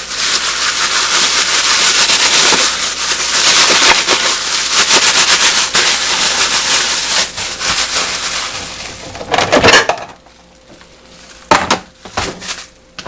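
Kitchen food-preparation sounds: about nine seconds of loud, dense crunching and scraping, then a louder clatter near the ten-second mark and a few sharp knocks near the end.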